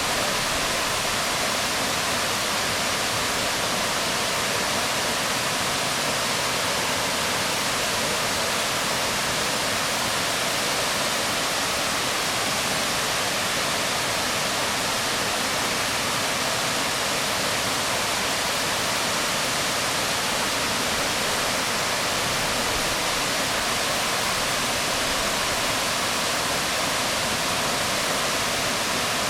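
Waterfall pouring onto rocks: a steady, unbroken rush of falling water with a hissing top, unchanging throughout.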